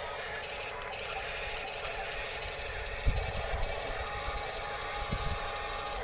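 Electric motors and gearboxes of radio-controlled construction models (bulldozer, excavators) whirring steadily, with a dull low thump about three seconds in and another near five seconds.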